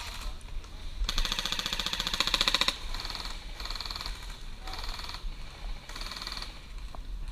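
Airsoft rifle firing on full auto: one long rapid burst about a second in, followed by several shorter bursts.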